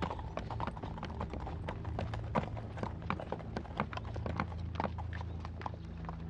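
Horses' hooves clip-clopping on hard ground: a dense, irregular run of hoofbeats from several horses moving at a walk.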